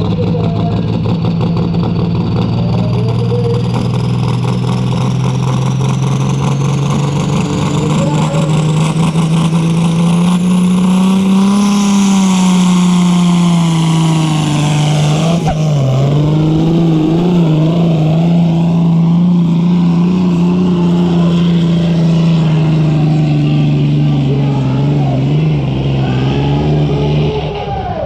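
Limited Prostock pulling tractor's diesel engine running flat out at high, fairly even revs through a pull. The pitch wavers briefly about halfway through, and the engine drops off near the end. A high whistle rises over the first ten seconds or so.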